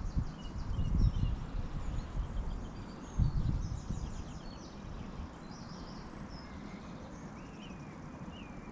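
Small birds chirping, with several short whistled calls sliding in pitch near the end. Irregular low rumbles run underneath, loudest about a second in and again just after three seconds.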